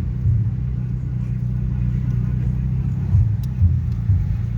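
Heavy bass from a car sound system playing Brazilian funk, heard almost only as a deep steady rumble with beat pulses coming through.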